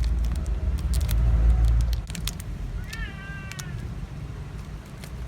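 Low rumble with scattered clicks and crackles for the first two seconds, then, about three seconds in, a short high-pitched animal-like cry with a slightly falling pitch, lasting under a second.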